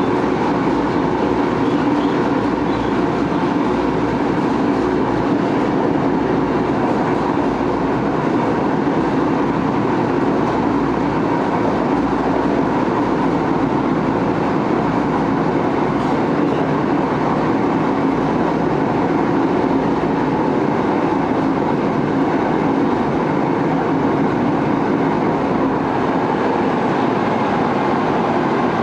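Tokyo Metro 6000 series electric train, car 6302, running at speed as heard from inside the car. It makes a steady, even running noise of wheels on rail and car body, with faint steady tones underneath and no marked rise or fall.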